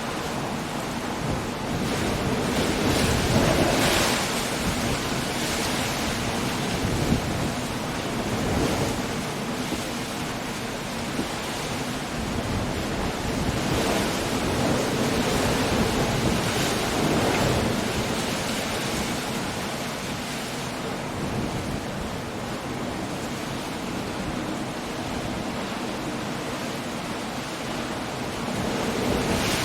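Storm surf on a rocky coast with wind: a steady wash of sea noise that swells as waves surge and break every few seconds, the largest about four seconds in.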